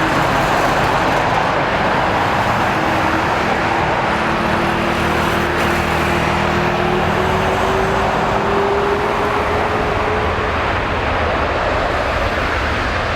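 Boeing 747-400 freighter's four jet engines at takeoff thrust during its takeoff roll: a loud, steady rushing roar, with a tone that slowly rises in pitch and fades out about ten seconds in.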